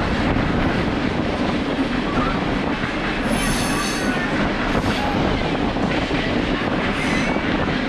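Passenger train rolling along the track, heard from aboard the car: a steady rumble of wheels on rail, with a high-pitched wheel squeal about three seconds in that lasts about a second, and shorter squeals around five and seven seconds.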